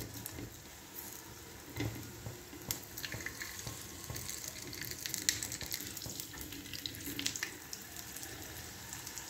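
Lachha paratha frying in oil on a flat tawa griddle: a steady sizzling hiss with scattered crackles from the oil, and a few soft knocks as a silicone spatula lifts and turns the bread.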